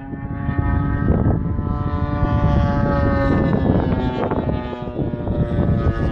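Model airplane's motor and propeller droning at a steady pitch that falls slightly about halfway through, with wind buffeting the microphone.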